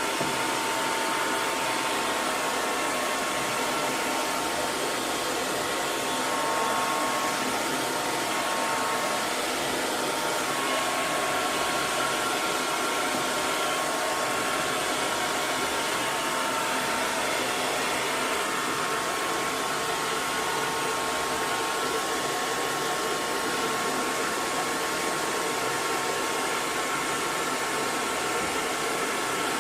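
Hair dryer running continuously, a steady rush of blown air with a faint motor whine near 1 kHz.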